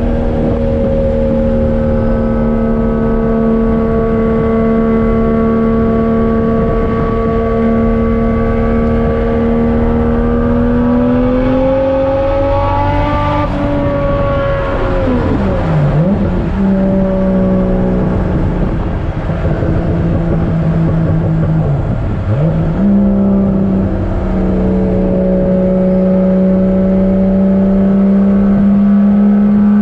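1JZ-GTE VVTi turbocharged inline-six engine in a Nissan 240SX pulling at steady revs. Its pitch climbs about halfway through, then drops sharply twice, as in gear changes, before it settles back to a steady drone.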